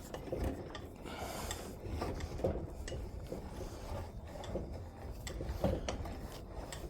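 Metal parts of a tractor being scraped and knocked together as a heavy component is worked into place by hand, with irregular clunks and clicks over a rough scraping.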